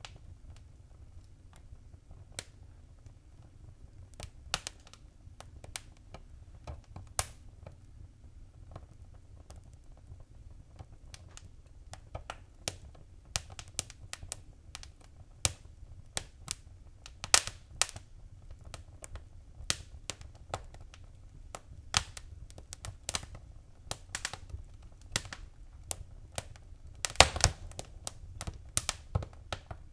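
Wood fire crackling: irregular sharp pops and snaps over a low steady rumble, sparse at first and coming thicker from about halfway, with a loud burst of pops near the end.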